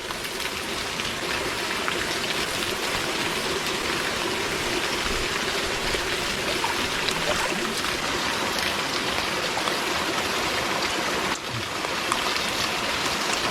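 Steady rush and splash of water pouring into a hot spring pool from a small warm waterfall and a hot water pipe.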